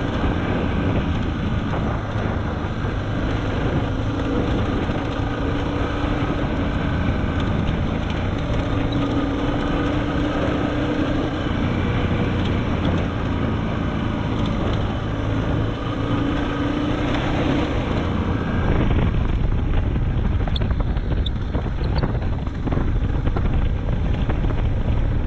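Suzuki DR650's single-cylinder four-stroke engine running while the bike is ridden, its pitch rising and falling with the throttle, with wind buffeting the microphone. The low wind rumble gets heavier about three-quarters of the way through.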